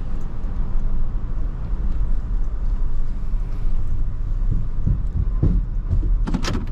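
Steady low road rumble of a vehicle driving, heard from inside the cab, with a few sharp clicks near the end.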